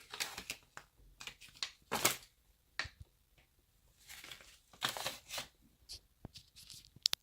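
Paper and cardboard packaging being handled: irregular rustles and crinkles as a manual and box contents are moved, with a quick run of sharp clicks near the end.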